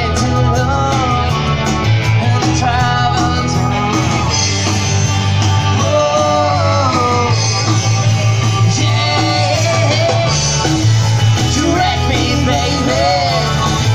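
Live rock band playing loudly, a heavy steady bass under a melody line that bends up and down in pitch.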